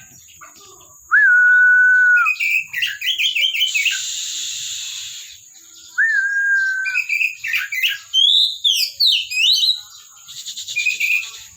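Oriental magpie-robin singing: long clear whistled notes broken by quick varied phrases. About four seconds in comes a harsh rasping buzz, and near the end a rapid scratchy rattle.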